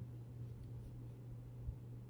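Faint clicking and scratching of knitting needles and yarn being worked, over a steady low hum, with a soft thump near the end.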